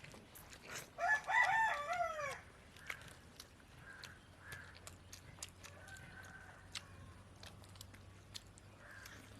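A rooster crows once, about a second in, a single crow of about a second and a half that falls in pitch at its end. Faint scattered clicks follow.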